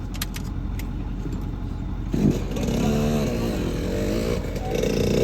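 Dirt bike engine coming in about two seconds in and revving up and down as the bike rides, louder near the end, over a low steady rumble.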